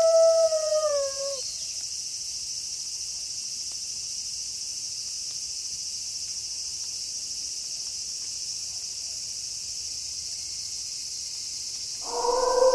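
A wolf howl holds one pitch, then drops and fades out about a second and a half in. A steady high chorus of night insects fills the pause, and a new, lower howl starts near the end.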